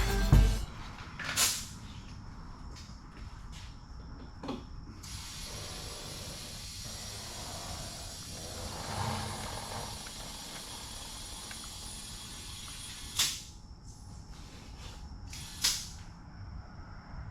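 Quiet work sounds: a few sharp clicks or clanks, several seconds apart, over a faint steady hiss.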